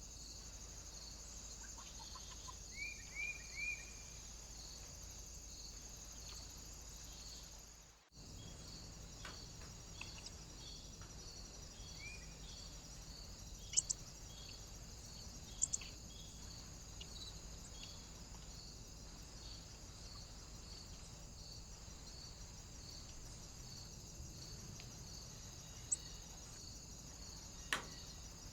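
Quiet outdoor ambience at a bird feeder: a small bird gives three short chirps about three seconds in, and another faint one later. A steady high hiss with an even pulsing runs underneath, and a few sharp clicks come in the second half.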